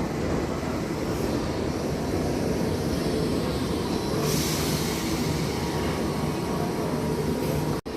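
A train running along the track past the platform: a steady rumble of wheels on rail, with a rise of higher hiss about four seconds in. The sound drops out for an instant near the end.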